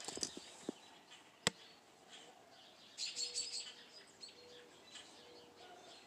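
Small birds chirping faintly, with a cluster of quick chirps about halfway through. A single sharp click sounds about a second and a half in.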